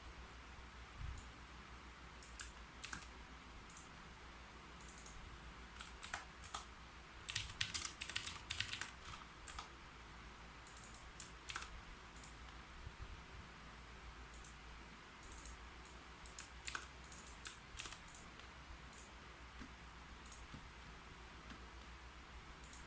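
Computer keyboard being typed on: irregular runs of key clicks with pauses between them, a dense flurry about seven to nine seconds in.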